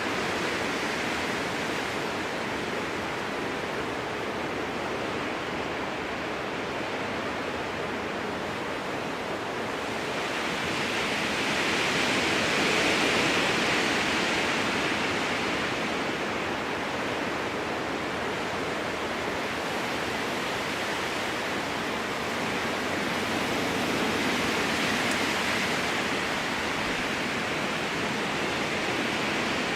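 Strong wind blowing through a spruce forest, a steady rushing noise of the trees that swells into a louder gust about halfway through and again near the end.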